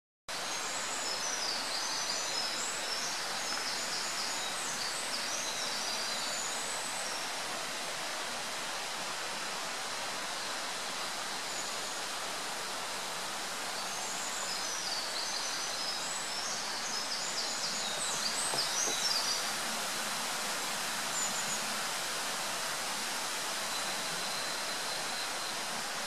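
A songbird singing quick, high twittering phrases in two long runs, near the start and again about fourteen seconds in, with a few single notes between, over a steady hiss.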